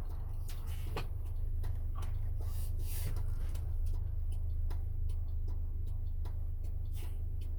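Camper van on the move: a steady low drone of engine and road, with many light irregular clicks and rattles.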